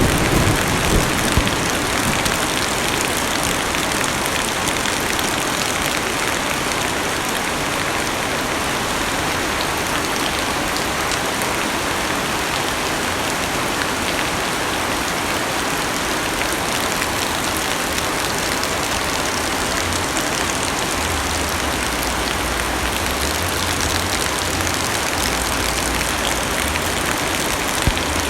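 Heavy rain drumming steadily on a car's roof and glass, heard from inside the cabin as a dense, even hiss with countless small drop taps. A low rumble fades out in the first second or so.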